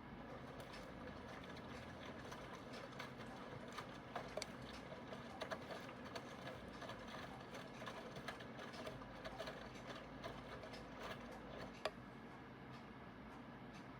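Aidoo 1 kg direct-drive mini washing machine running through its cycle: a steady mechanical hum with scattered irregular clicks and knocks.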